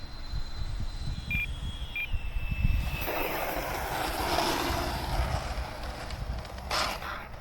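E-flite F-16 70 mm electric ducted-fan jet whining on a landing approach, the pitch stepping down twice about a second and a half and two seconds in as the throttle comes back. Then a rushing noise for about three seconds. Wind rumbles on the microphone throughout.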